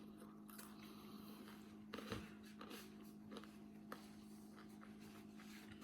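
Near silence: room tone with a steady low hum and a few faint small clicks about two to four seconds in.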